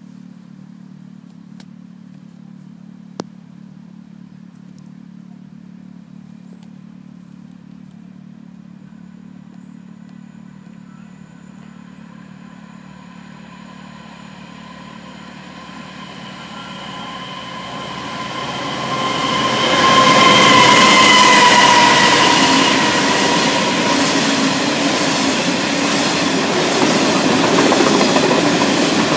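A Class 66 diesel freight locomotive, with its two-stroke V12 engine, approaches and grows steadily louder, passing at its loudest about two-thirds of the way in. The long rake of bogie hopper wagons behind it follows with a continuous rumble and clatter of wheels on the rails.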